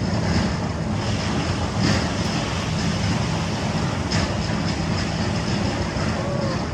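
Concrete mixer running steadily, with a short clatter about every two seconds as the drum turns.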